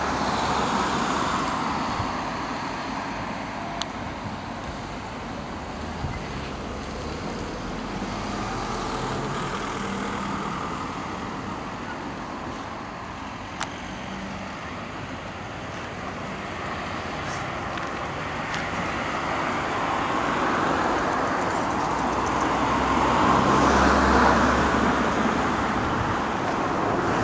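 Diesel engine of a Scania fire engine running, mixed with road traffic noise; it grows louder from about twenty seconds in, peaking shortly before the end. A few short clicks stand out.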